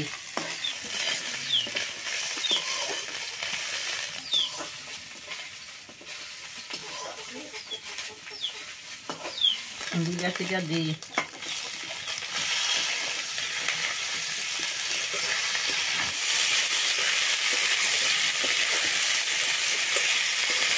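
Onions and ginger sizzling in hot oil in an iron wok, stirred and scraped with a metal spatula. The sizzle grows louder in the second half as chopped tomatoes go into the pan.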